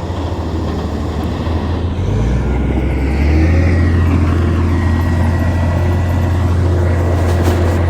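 Heavy earthmoving machine's diesel engine running under load, getting louder about two seconds in and again a second later, with a faint high whine over it.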